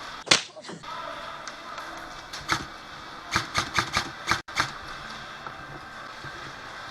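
Airsoft guns firing single shots: one loud sharp crack, another a couple of seconds later, then a quick run of five or six cracks, about four or five a second.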